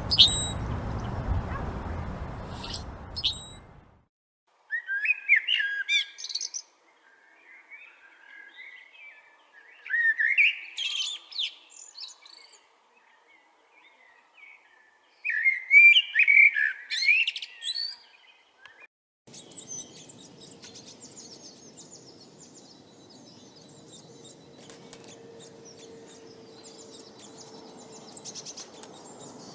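Songbirds singing: three warbled song phrases of about two seconds each, a few seconds apart. Then a dense chorus of many rapid, high-pitched chirps begins over a steady hiss.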